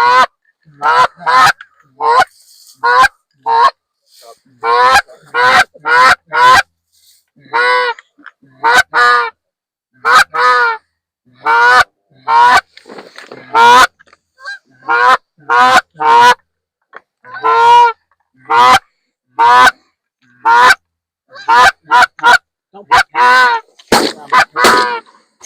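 Handheld goose call blown close by in a string of loud, short honks and clucks, mostly in pairs and triplets with brief pauses, quickening near the end: a hunter calling geese in over the decoys.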